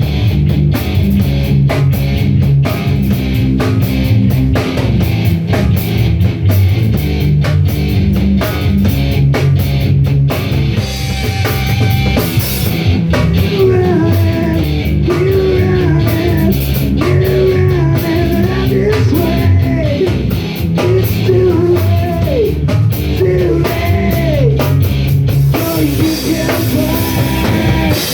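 Rock band playing: a drum kit hitting steadily over bass and guitar, with a wavering melodic line, lead guitar or voice, coming in over it about halfway through.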